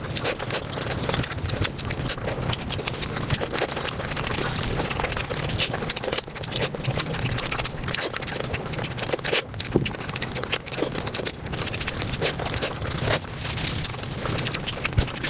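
Close-miked eating sounds, chewing and mouth noises, sped up fivefold into a dense, continuous patter of quick wet clicks and crackles.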